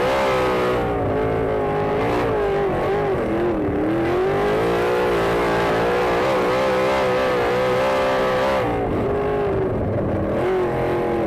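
Sprint car's V8 engine running hard at racing speed, its pitch rising and dipping again and again as the throttle lifts and opens around the oval.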